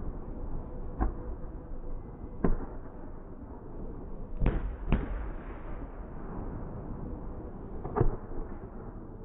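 Fireworks going off: five sharp bangs at uneven intervals, two of them in quick succession about halfway through, over a steady background rush.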